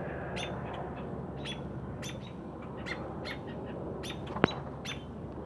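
A small bird chirping, short high calls about two a second, with one sharp tap just after four seconds.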